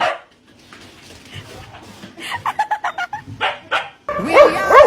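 A dog whimpering and yipping in short calls, then whining in louder, repeated rising-and-falling calls near the end.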